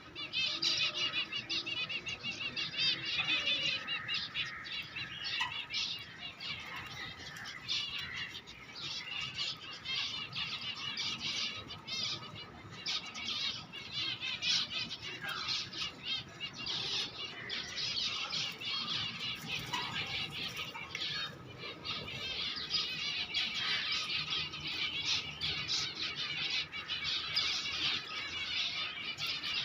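A dense, continuous chorus of many small caged birds chirping and twittering, with some wing flapping.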